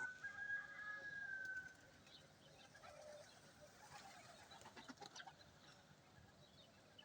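Faint outdoor bird sounds around a pigeon loft. It opens with one clear whistled note of about a second and a half, dropping slightly in pitch, then only scattered faint chirps and clicks.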